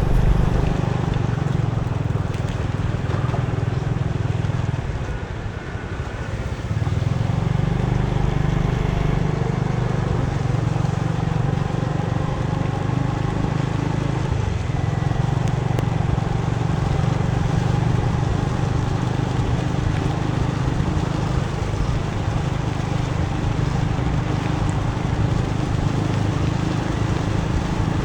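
Motorbike engine running steadily under way, with road and wind noise; it eases off and goes quieter for about a second around five seconds in, then picks up again.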